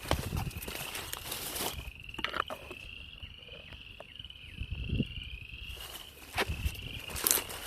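Frogs calling from a pond in one continuous high trill that wavers slightly, with a few sharp knocks or rustles close by.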